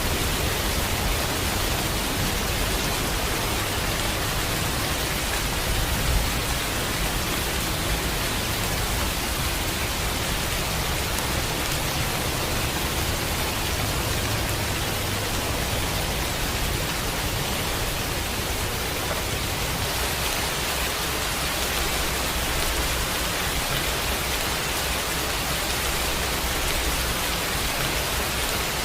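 Steady, even hiss of rain falling, with no change in intensity.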